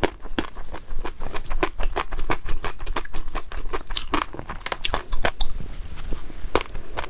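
Close-miked eating: a person chewing and biting food, giving many quick, irregular wet clicks and crunches, several a second.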